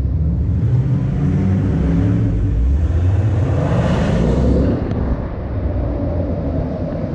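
Ford Mustang GT's 5.0-litre V8 running as the car drives. The engine note rises as it revs from about two seconds in, then falls back off the throttle about five seconds in.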